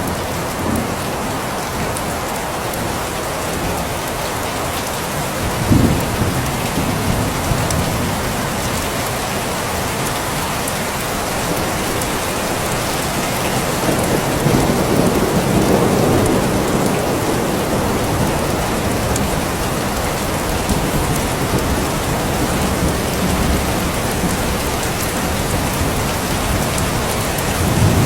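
Steady heavy rain falling, with low rumbles of thunder: a short one about six seconds in and a longer swell around the middle.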